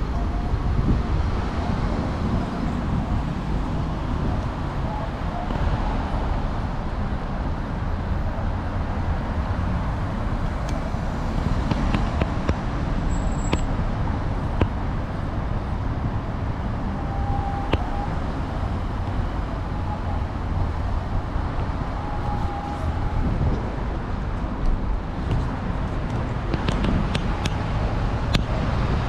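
Steady city street traffic noise with a heavy low rumble, and a few short clicks about halfway through and again near the end.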